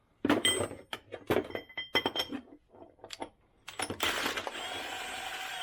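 Steel tools and parts clinking and knocking together in a quick run of sharp metallic strikes, as a pitman arm puller and loose steering parts are handled. About four seconds in this gives way to a steady rasping noise with a faint wavering whine.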